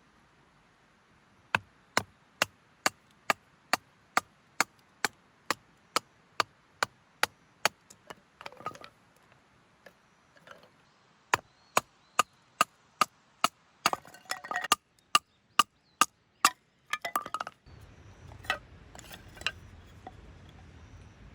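A tool striking wood in quick, evenly spaced sharp knocks, about two a second, in two long runs with a short pause between, typical of chopping or splitting firewood.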